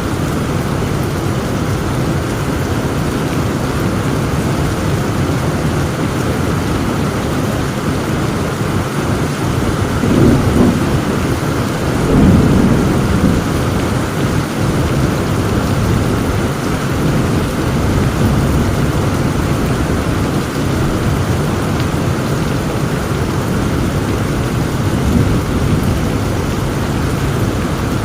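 Heavy rain falling steadily, with thunder rumbling low behind it and swelling loudest about ten and twelve seconds in.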